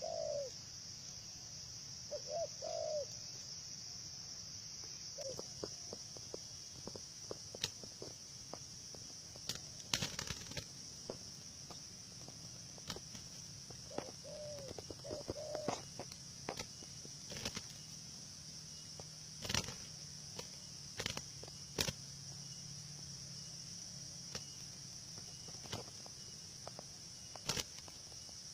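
Zebra doves cooing in short low phrases, a few near the start and more about halfway through, with scattered sharp flaps and knocks, over a steady high insect drone.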